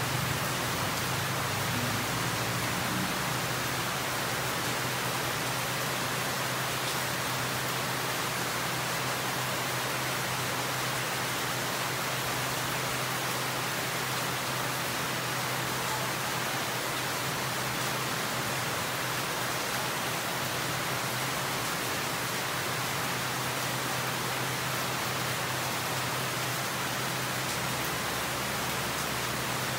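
Steady rain falling, an even hiss with no pauses, over a steady low hum. A low rumble fades away in the first couple of seconds.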